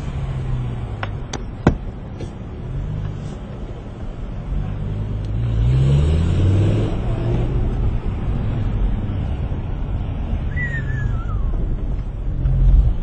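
Car engine running on the move, its pitch rising around the middle as it picks up speed, with a sharp click a couple of seconds in.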